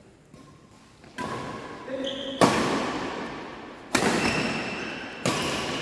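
Badminton rally: four sharp racket strikes on the shuttlecock about a second and a half apart, each echoing in a large hall.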